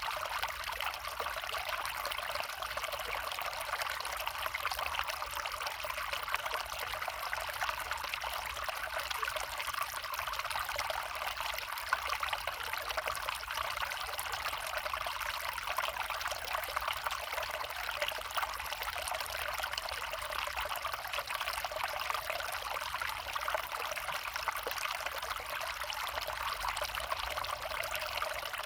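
Small forest creek flowing over stones, a steady trickling and splashing of running water.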